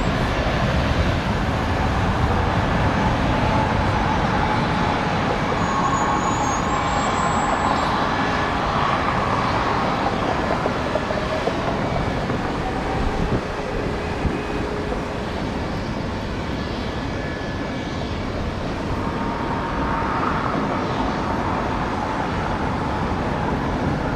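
Airbus A330-900 jetliner taking off, its Rolls-Royce Trent 7000 engines at takeoff power giving a steady rumble and hiss with a faint whine that drifts in pitch.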